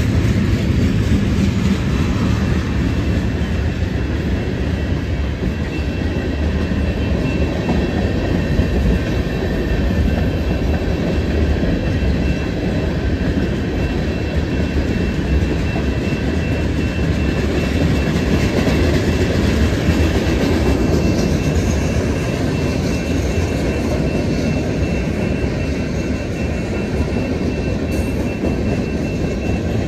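Freight train of autorack, tank and gondola cars rolling past, a steady heavy rumble of wheels on the rails. A thin, steady high-pitched tone runs through most of it.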